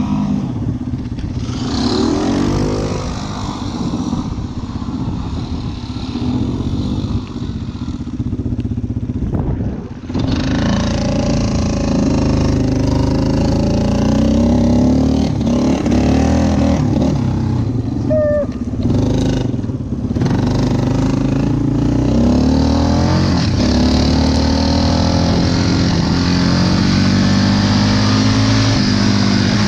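Yamaha Wolverine four-wheeler's engine running while being ridden, its pitch rising and falling with the throttle; it eases off briefly about ten seconds in, then pulls back up and runs steadily.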